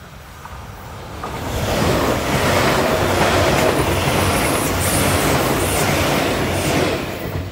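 Electric train running along the line: wheels on the rails with a steady low motor hum. It swells to full loudness about a second and a half in, holds, and falls away near the end.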